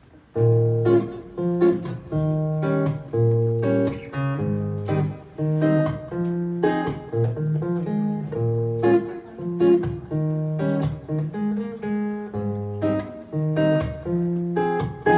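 Acoustic guitar playing a song intro, chords struck and picked in a steady repeating pattern.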